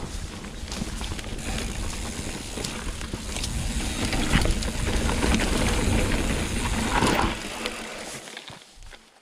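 Mountain bike riding fast down a dirt trail: wind buffeting the microphone with tyres rolling over the ground and the bike rattling and clicking over bumps. It is loudest in the middle, then dies away over the last two seconds.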